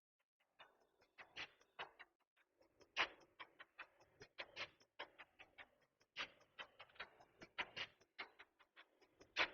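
Faint, irregular sharp clicks and taps, several a second, some louder than others.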